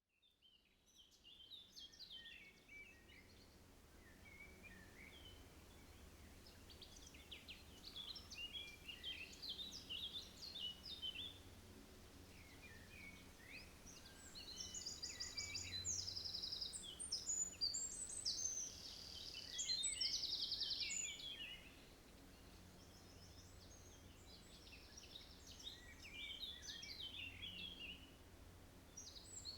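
Several songbirds singing, with varied chirps and warbles and a few very fast high trills, the loudest about halfway through. A low steady rumble runs underneath.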